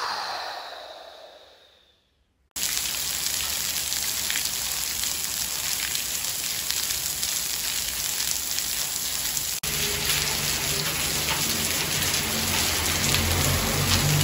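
A falling whoosh fades out over the first two seconds. After a short silence, a steady rushing hiss starts abruptly and runs on, with a low hum joining about ten seconds in.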